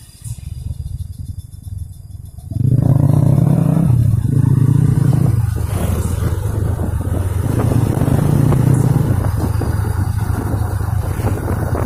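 Heavy truck's diesel engine running with a low rumble, then suddenly much louder about two and a half seconds in, holding a deep steady drone that shifts slightly in pitch.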